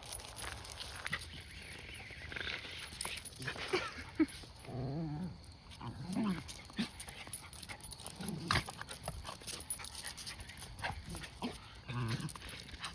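A puppy making short pitched vocal calls several times, each bending in pitch, with scattered clicks and rustling around it.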